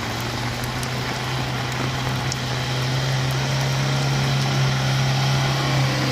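Heavy vehicle engine running at a steady speed, a low steady drone that stops right at the end.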